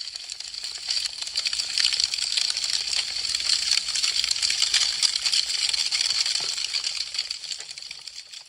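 Burning wood crackling with a dense run of quick, sharp pops and snaps, swelling in over the first second and fading out near the end.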